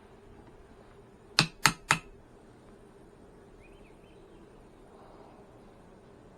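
Three sharp clicks in quick succession, about a quarter second apart, over a faint steady hum.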